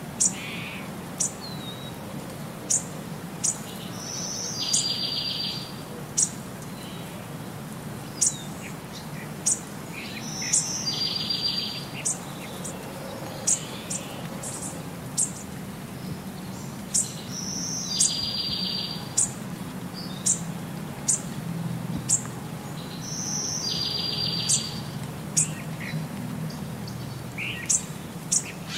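Small birds chirping: sharp high chips about once a second and a short buzzy trill that comes back every six or seven seconds in a repeating pattern, over a low steady hum.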